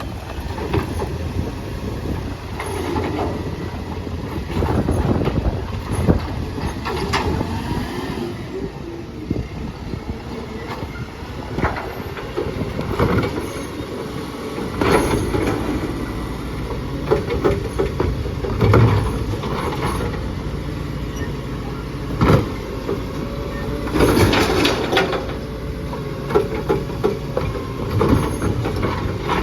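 Recycling garbage truck's engine running, with repeated knocks, bangs and rattling clatter as bins are lifted and tipped into the truck, the loudest clusters about halfway through and near the end.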